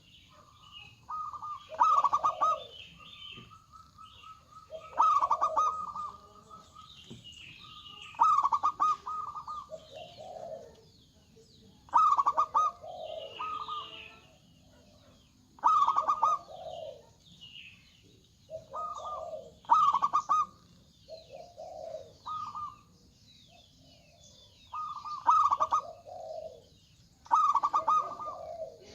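Zebra doves (perkutut) calling loudly over and over, each phrase a quick stuttering run of coos ending on a clear higher note, with more than one bird answering the other every two to four seconds. Small birds chirp faintly in the background.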